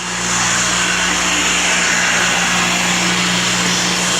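Homemade shop fan driven by a repurposed inground pool pump motor, running at full speed: a steady electric motor hum under the rush of air from its three blades. The sound grows louder in the first half second, then holds steady.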